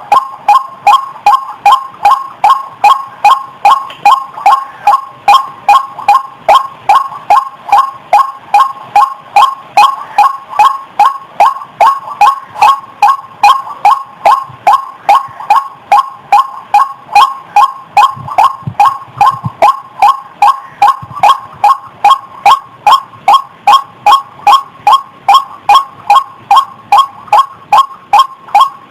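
White-breasted waterhen (ruak-ruak) calling: a loud, steady run of short, repeated notes at about two a second.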